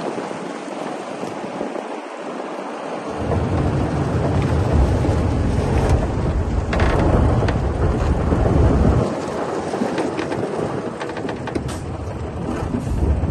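Bulldozer working: a deep diesel rumble with rough clattering noise, the rumble heaviest from about three seconds in to about nine seconds in.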